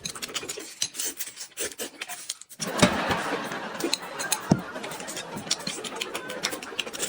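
Clinks and clicks of bowls, plates and utensils being handled at a table, with a busier stretch of rubbing and knocks from about two and a half seconds in.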